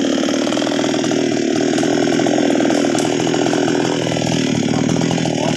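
Nwesst 628 two-stroke chainsaw running steadily.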